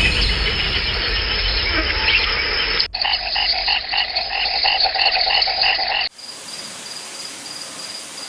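Rainforest frogs calling in a dense chorus. About three seconds in, the sound cuts abruptly to a steady, rhythmic croaking of about three calls a second. About six seconds in, it cuts again to a quieter, even hiss.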